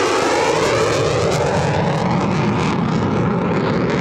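Fifth-generation stealth fighter jet passing at high power, a continuous loud jet roar with a sweeping, phasing quality as it goes by and a ragged crackle through the middle.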